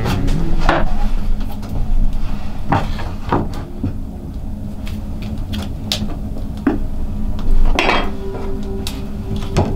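Scattered knocks and clinks of pots, utensils or stove fittings being handled, a few of them ringing briefly; the loudest comes near the start and about eight seconds in.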